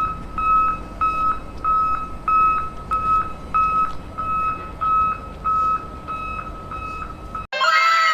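Electronic beeping like a vehicle's reversing alarm: one high tone repeating about twice a second. Near the end it cuts abruptly to a burst of several falling, whistle-like tones.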